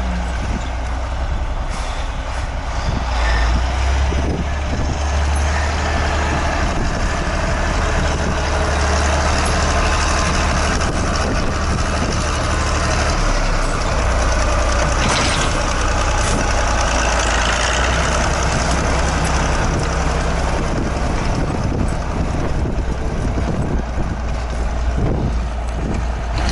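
Heavy wheeled tractor's diesel engine running steadily under load while clearing snow, with a broad rushing noise over the low engine drone.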